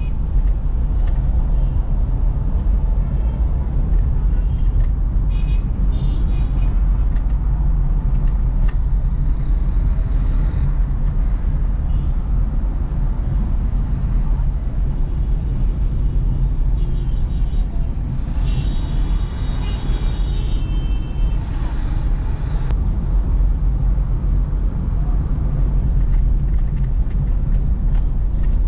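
A car driving through city traffic, with a steady low rumble of road and engine noise. Short high-pitched tones from surrounding traffic come in about six seconds in, and again for a couple of seconds about two-thirds of the way through.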